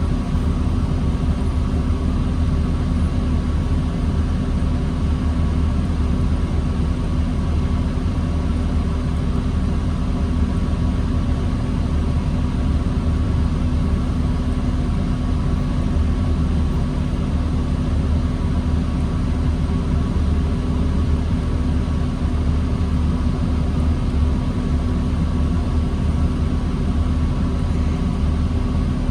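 2009 New Flyer D40LFR diesel transit bus engine idling: a steady low drone with a constant higher whine, unchanging throughout.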